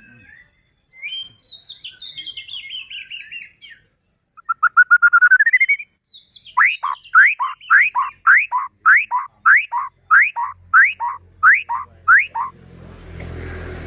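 White-rumped shama (murai batu) singing: a chattering phrase, a quick trill that climbs in pitch, then about eleven loud upswept whistles repeated about twice a second. Near the end the song stops and a rushing noise with a low hum comes in.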